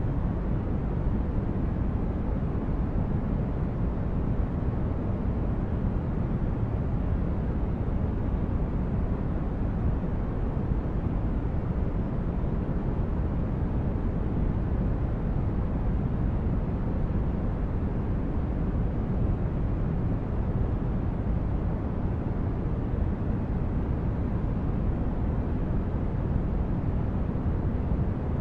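Steady, deep noise from a white-noise sleep track, heaviest in the bass and dull at the top, with no change in level.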